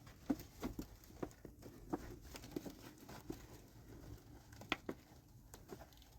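Scattered light clicks and knocks at an irregular pace, the sharpest about three-quarters of the way through.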